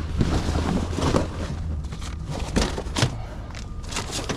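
A few sharp knocks and thumps of tarp gear being handled and moved on a flatbed load, over a steady low hum.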